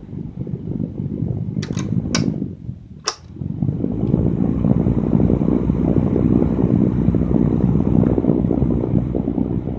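Electric fan blowing air with a steady rushing rumble, broken by several sharp clicks in the first three seconds. After about three and a half seconds the blowing gets louder and stays steady.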